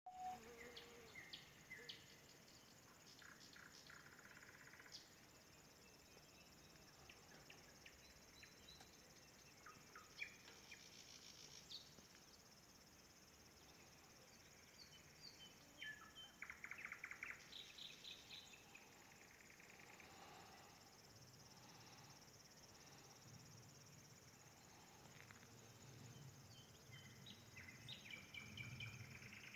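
Nightingale singing faintly in separate phrases of fast repeated clicking notes and short whistles, with pauses between phrases, over a steady high hiss.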